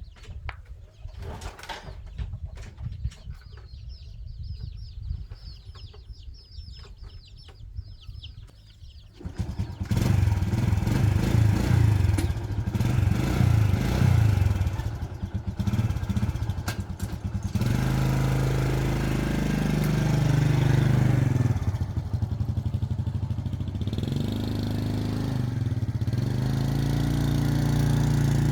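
A small engine starts about a third of the way in, runs unevenly for several seconds, then settles into a steady idle. Before it, faint clicks and high chirping.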